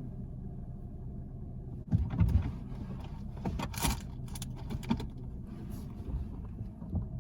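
A car engine running steadily, with knocks, clicks and rattles of handling starting about two seconds in.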